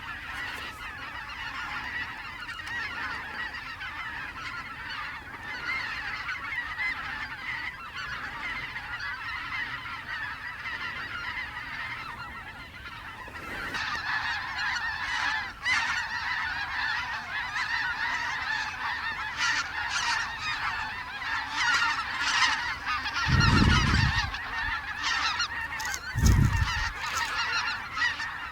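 A large flock of snow geese calling overhead, a dense continuous chatter of high honks that grows louder about halfway through as the flock comes closer. Two short low thumps sound near the end.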